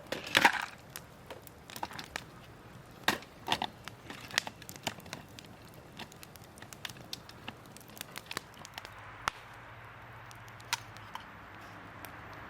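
Wood fire crackling with irregular sharp pops. A few louder snaps and knocks come in the first half, like firewood being snapped or shifted. About nine seconds in, a steady hiss sets in under the pops.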